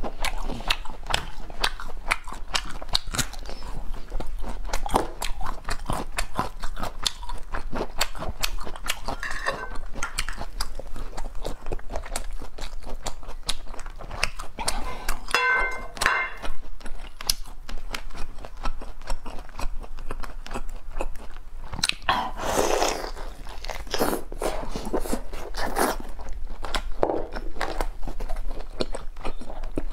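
Close-miked chewing and mouth sounds of someone eating cooked spiny lobster tail meat: a steady run of quick clicks and smacks.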